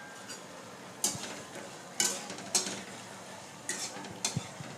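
Spatula stirring fried chicken pieces into boiling chilli sauce in a kadai, with several sharp knocks and scrapes of the spatula against the pan over a soft, steady sizzle.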